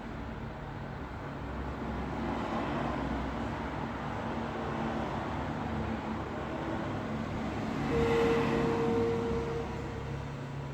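Road traffic with vehicle engines running and passing. The sound swells to its loudest about eight seconds in, with a steady tone from one passing vehicle, then fades.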